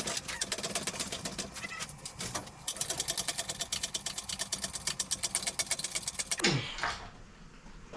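Hand ratchet wrench clicking rapidly, several clicks a second, as bolts are run in on the engine. Near the end a short falling squeal cuts across it.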